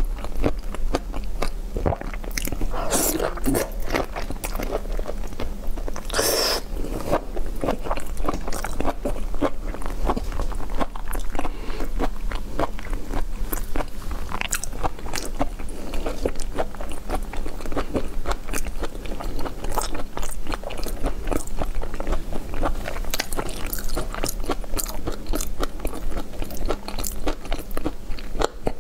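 A person biting and chewing shellfish close to a clip-on microphone: a steady run of quick, close mouth clicks, with two louder, longer mouth sounds about three and six seconds in.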